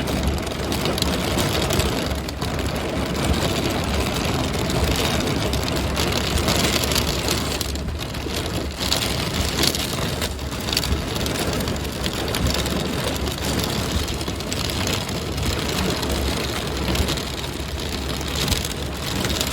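Heavy rain mixed with hail pelting down in a dense, steady patter of hits, with a low rumble underneath.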